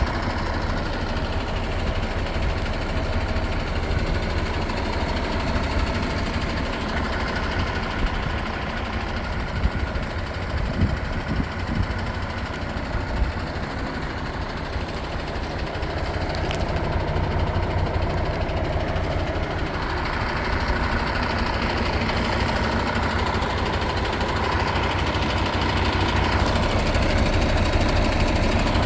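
MAN TGS 18.470 truck's six-cylinder diesel engine idling steadily, with a deep low rumble.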